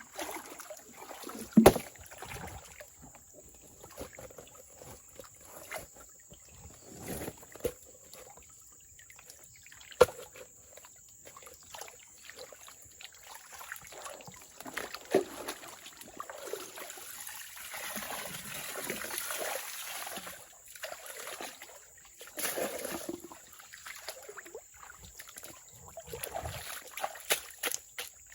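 Water sloshing and splashing in irregular bursts, with a few sharp knocks, the loudest about a second and a half in and another about ten seconds in.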